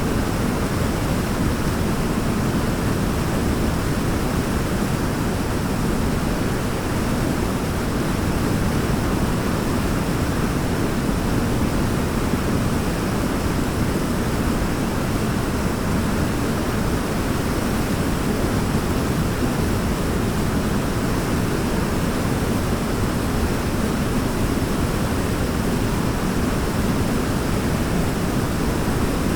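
Waterfall rushing steadily: a constant, deep hiss of falling water with no change in level.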